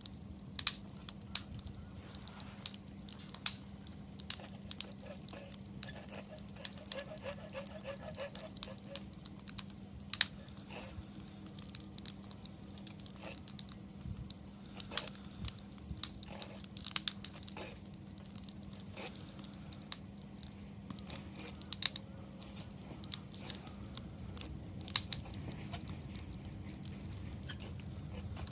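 Wood fire crackling, with irregular sharp pops and snaps, a few much louder than the rest, over a faint steady low hum.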